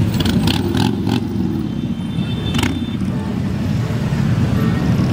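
Many motorcycle engines rumbling steadily as a procession of motorcycles rides past. A few short sharp sounds cut through during the first second or so and once more about halfway through.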